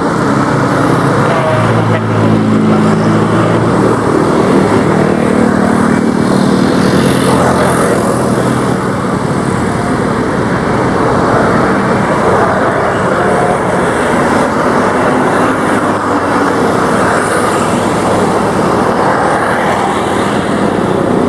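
Propeller aircraft engine drone from Beech G36 Bonanzas' six-cylinder piston engines. A steady engine hum is clearest in the first few seconds, then fades into a dense, even rush of noise.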